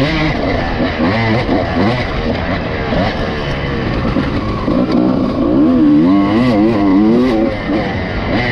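Honda CR250 two-stroke motocross bike engine being ridden hard, its pitch rising and falling again and again as the throttle is worked on and off, with the strongest run of revs about five to seven seconds in.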